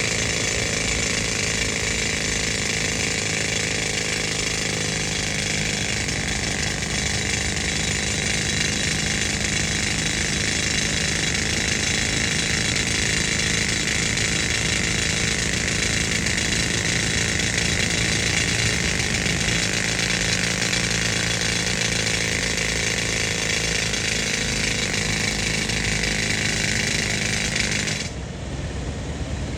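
Pneumatic rock drill running steadily on compressed air, then cutting off abruptly about a second and a half before the end. The air compressor's engine keeps running underneath.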